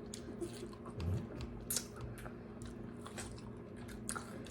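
A person chewing a mouthful of fresh strawberries close to the microphone, with scattered short mouth clicks over a low steady hum.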